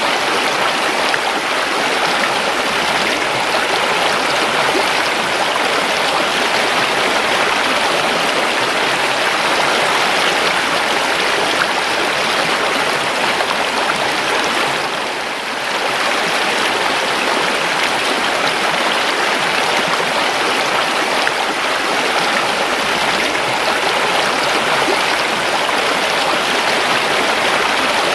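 Flowing river water rushing steadily over rocks, a continuous even stream sound that dips briefly about halfway through.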